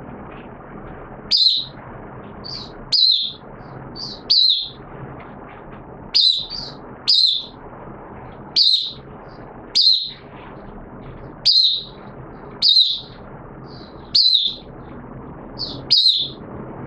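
Caged red-whiskered bulbul (jambul) singing short, bright, high-pitched phrases. They come every second or so, some in quick pairs, over a steady low background hiss.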